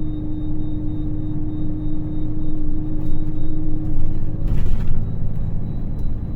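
Scania K400 coach's diesel engine running with a steady low drone. A steady hum over it stops about four seconds in, followed by a brief hiss.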